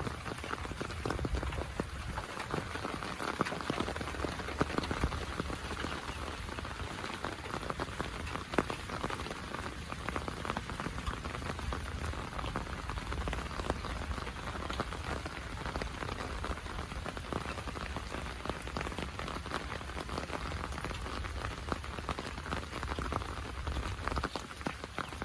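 Heavy monsoon rain falling steadily, with a dense patter of individual drops striking surfaces.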